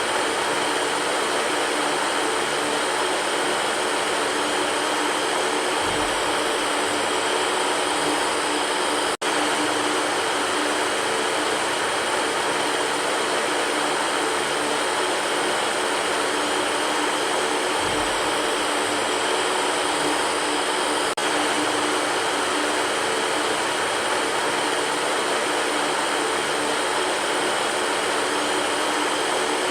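Electric fan running steadily: an even rush of air with a faint motor hum underneath. The sound drops out for an instant about nine seconds in.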